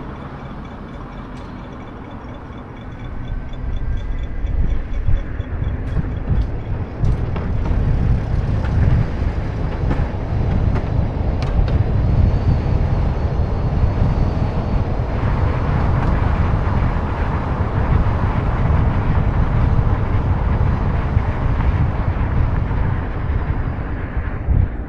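Road and wind noise from a car on the move, picked up by a camera mounted on its roof: a steady, loud rumble with rushing air, growing louder about three seconds in.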